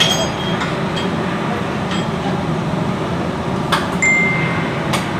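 Metal parts and tools clinking a few times over a steady low hum, with a short ringing ping about four seconds in.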